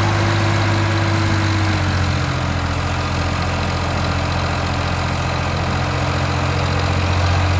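Tractor diesel engine running steadily, its note settling slightly lower about two seconds in.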